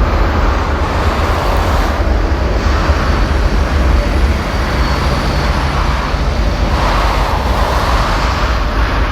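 Jet engines of a Boeing 787-10, Rolls-Royce Trent 1000 turbofans, on a landing: a loud, steady rumble and rush of jet noise, with a faint high whine about halfway through.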